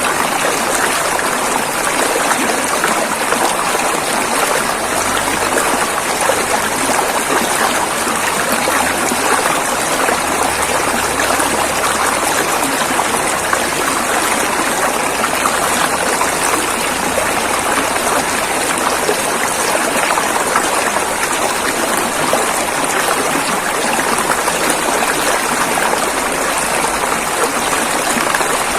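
River water rushing and flowing over rocks, a steady even churn.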